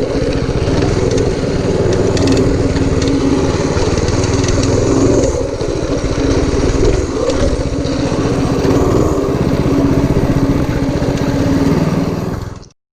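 Predator 212cc single-cylinder four-stroke engine on a homemade minibike running steadily, with small rises and dips in speed. The sound cuts off abruptly near the end.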